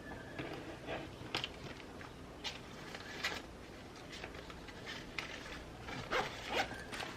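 Irregular light rustles and taps of paper and stationery being handled while journaling, over a faint steady background hiss.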